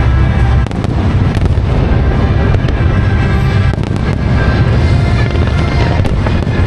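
Aerial fireworks bursting in a dense barrage, a continuous deep rumble broken by several sharp cracks, with the display's accompanying music playing over loudspeakers.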